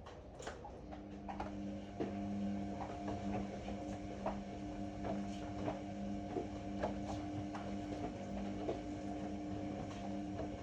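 Ariston AML125 washer-dryer's drum motor starting about a second in and humming steadily as the drum turns, with irregular light clicks and knocks throughout.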